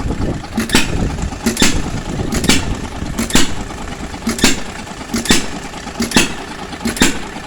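Hit-and-miss engine driving an ice cream maker, firing with a sharp bang a little more than once a second and running on more quietly between firings.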